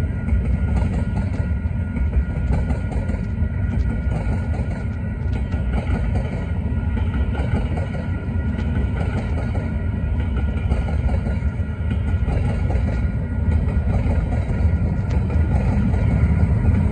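Freight cars of a mixed manifest train, tank cars and covered hoppers, rolling past at speed: a steady heavy rumble of steel wheels on the rails with a constant fine clatter. The sound grows slightly louder near the end.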